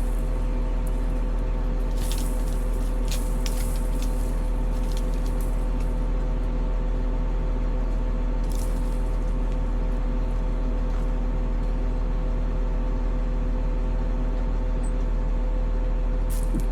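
CAT 140M motor grader's diesel engine running at a steady speed, a constant drone. A few short hissy clicks sound a couple of seconds in, about halfway, and near the end.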